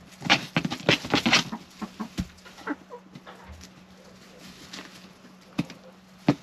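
Chickens pecking and scratching in their coop: a quick flurry of sharp taps and scratches, then scattered taps and two single sharp knocks near the end.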